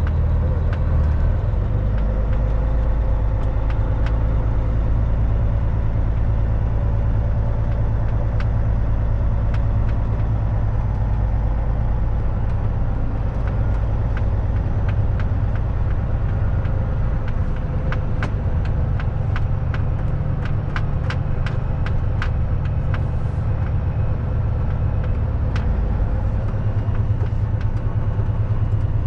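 Kenworth W900 semi truck's diesel engine running steadily on the road, with scattered sharp clicks and a quick run of them past the middle.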